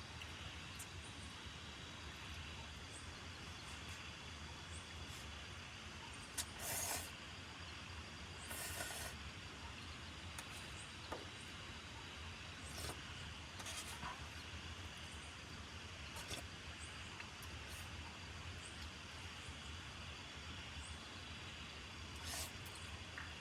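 Steady rain falling, a hiss with a low rumble underneath, broken now and then by a few brief louder noises.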